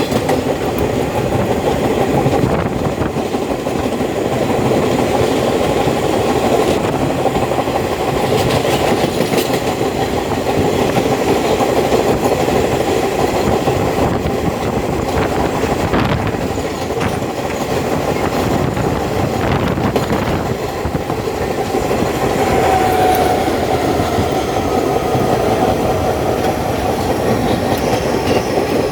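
Subway train running at speed, heard from aboard: a steady rumble with wheels clicking over rail joints, and a faint wheel squeal near the end.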